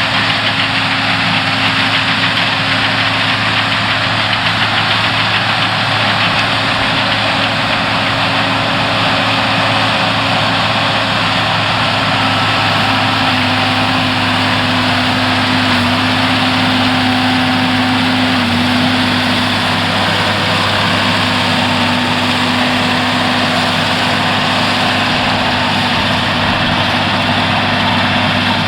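Tractor diesel engine running steadily, with a constant low hum and no change in speed.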